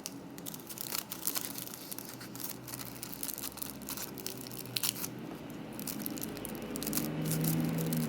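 Plastic packaging crinkling and rustling as it is handled, with many irregular crackles. A low hum comes up over the last two seconds or so.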